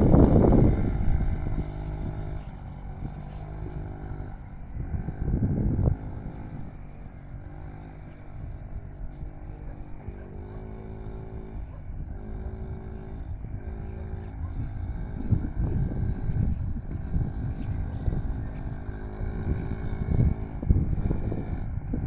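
Yamaha PW50 minibike's small two-stroke engine revving up and down as it is ridden. It is louder near the start and through the second half, quieter in the middle.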